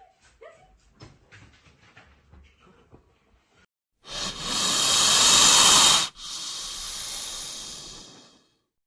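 Faint small clicks and taps, then a loud rushing hiss about four seconds in that lasts about two seconds, breaks off, and comes back quieter before fading out.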